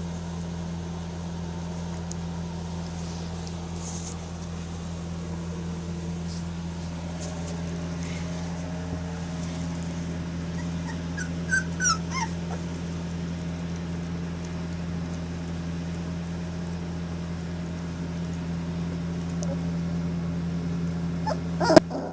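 Three-and-a-half-week-old Presa Canario puppies whimpering and yipping in a few short, high cries, about halfway through and again near the end, over a steady low hum.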